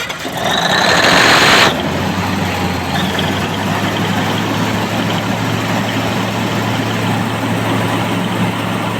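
Engine idling steadily with an even hum, after a loud, noisy burst that starts suddenly and stops about a second and a half in.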